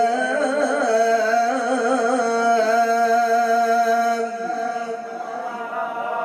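A man reciting the Quran in the melodic tajwid style, drawing out one long sung note with wavering ornaments. Then, about four seconds in, it slides down and becomes softer.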